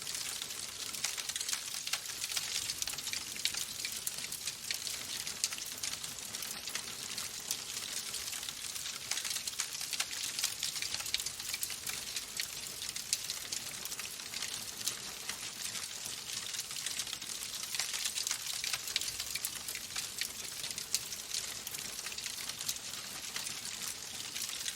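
Wood fire crackling in a fireplace: a steady hiss full of small, sharp pops.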